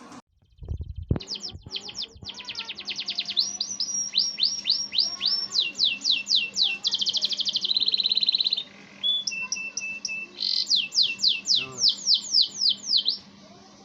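Domestic canary singing a long, vigorous song made of fast trills of repeated high down-slurred notes, with a buzzy rattling phrase about halfway through, a brief pause, then more trills that stop shortly before the end.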